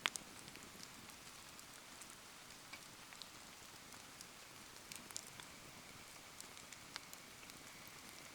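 Rain falling steadily around a wood campfire, with scattered sharp crackles and pops from the burning wood, the loudest right at the start. A faint, thin steady whistle sets in about halfway through.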